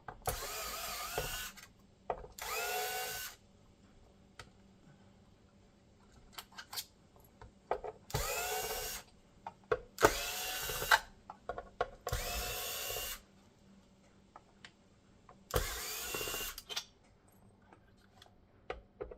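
Small electric screwdriver backing out screws in about six short runs, each about a second long and rising in pitch as the motor spins up, with sharp little clicks and taps of screws and parts between the runs.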